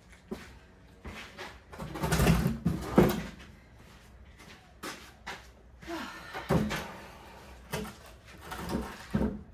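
Wooden timber knocking and scraping as a warped board is worked into place, with a louder scrape about two seconds in that ends in a sharp knock, then scattered thuds.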